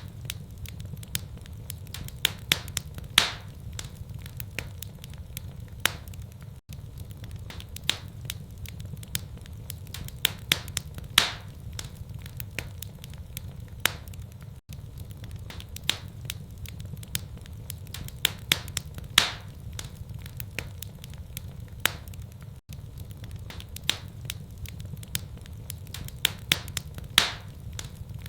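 Wood fire crackling, with irregular sharp snaps and pops, a few much louder than the rest, over a steady low rumble.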